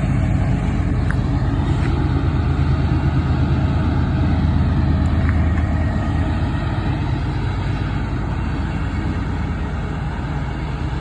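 Coal train's diesel locomotives and rolling cars making a steady low rumble, easing off slightly toward the end.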